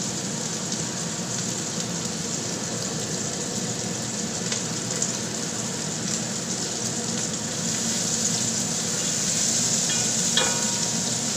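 Sliced garlic and shallots sizzling in hot oil in a pot, a steady frying hiss that grows a little louder about eight seconds in. A wooden spatula stirs them near the end.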